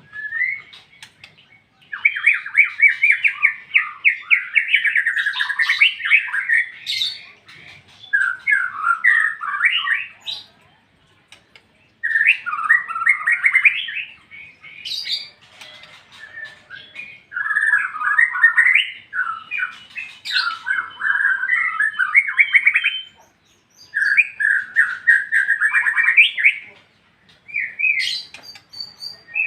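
White-rumped shama singing in full, open song: a run of loud, rapid, varied warbling phrases, each a few seconds long, separated by short pauses.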